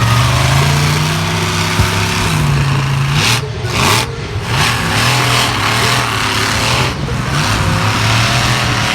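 Vehicle engine running loud and steady, its revs climbing over the first couple of seconds and dropping back just after three seconds in.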